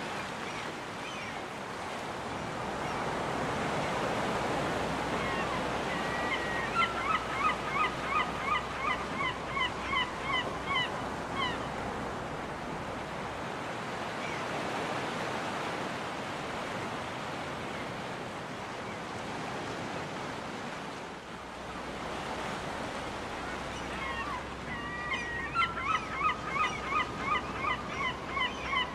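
Surf breaking and washing on a beach, swelling and ebbing steadily, with seagulls calling over it: two runs of about a dozen short, falling calls each, roughly two a second, about a quarter of the way in and again near the end.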